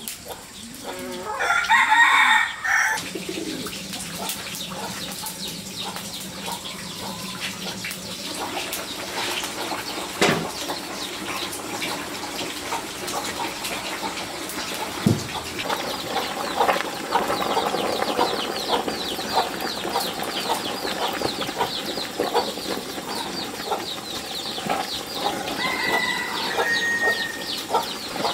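Chickens on a farm. A rooster crows once, loudly, about a second in, then hens cluck over many scattered small clicks.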